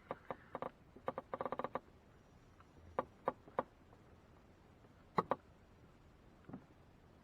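Short, sharp clicks and knocks in small groups: a quick run of about eight just after a second in, then three evenly spaced, a pair, and a single fainter one near the end.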